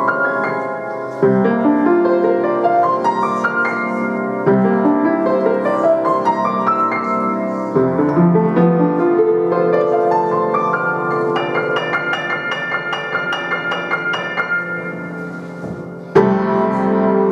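Solo piano playing a flowing piece, with new chords struck every few seconds and a run of quick high notes in the middle. A loud closing chord is struck near the end and rings on.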